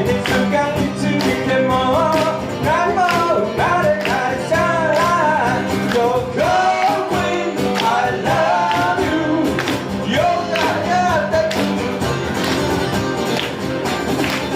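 Live band playing a song: guitar backing with a steady pulse, and a sung melody line through most of it.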